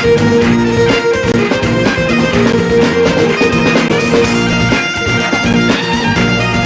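Traditional Scottish band playing a fast reel: bagpipes leading over a steady drone, with fiddle and strummed guitar.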